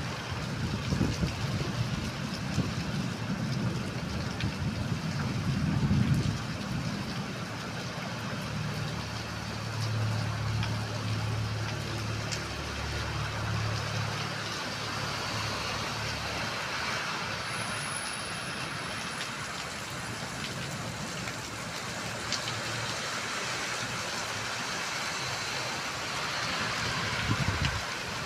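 Heavy rain falling hard, a steady hiss. For the first several seconds a low rumble swells and fades under it, and a steady low hum sounds for a few seconds around the middle.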